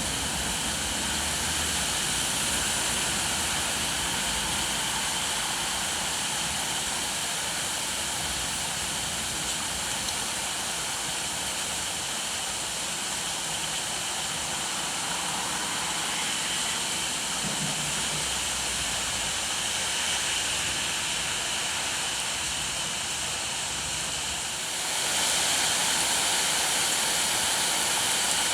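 Steady rain, an even hiss, that grows louder about 25 seconds in.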